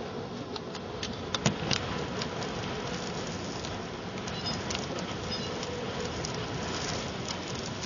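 Steady rush of a desert sand storm's wind, with windblown sand and grit pattering and ticking against the windows; a few sharper ticks stand out a little over a second in.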